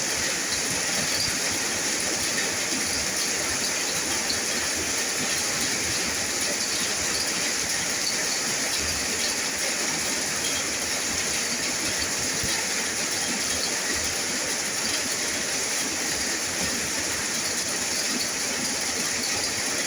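Steady rain falling: an even, unbroken hiss with scattered light droplet ticks.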